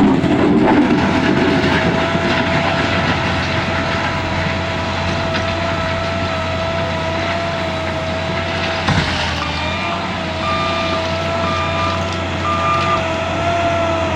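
Wheel loader's engine running steadily at high revs, with a knock a little past the middle. After the knock a reversing alarm starts beeping about once a second.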